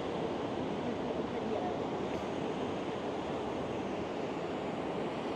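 Ocean surf breaking and washing on a sandy beach, a steady rushing noise.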